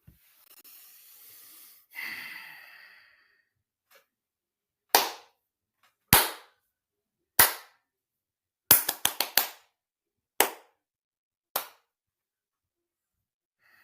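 A series of sharp, loud bangs, spaced a second or more apart, with a quick run of five in a row about nine seconds in. A faint hiss and a short rough noise come before them.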